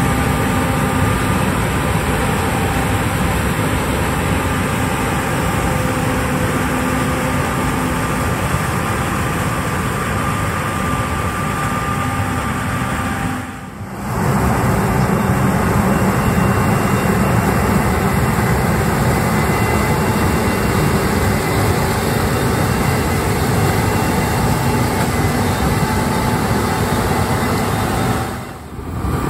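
Harvesting machinery running in a corn field: the steady noise of combine harvesters and tractors with large diesel engines working, with a few steady whining tones. It fades out briefly twice, about halfway through and near the end.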